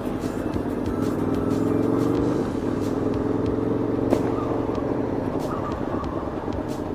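Aprilia Tuono V4's V4 engine pulling under acceleration on the road, its pitch rising and then dropping at a gear change about two and a half seconds in, then running on more steadily.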